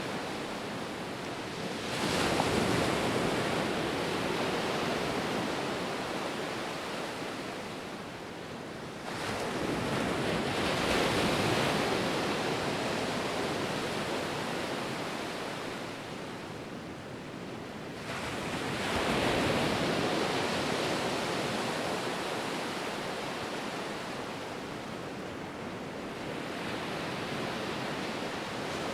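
Ocean waves breaking, three surges about seven to nine seconds apart, each swelling suddenly and then slowly washing away.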